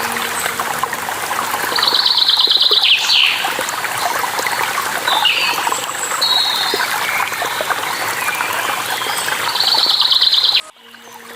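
Steady rushing of running water with songbirds calling over it: a rapid trill about two seconds in and another near the end, with several shorter chirps and falling whistles between. Near the end the whole sound cuts out abruptly and then fades back in.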